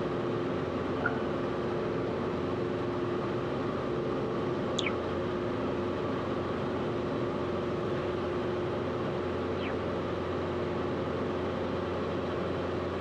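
Steady drone of a Cessna 172RG's single piston engine and propeller in flight, heard from inside the cockpit.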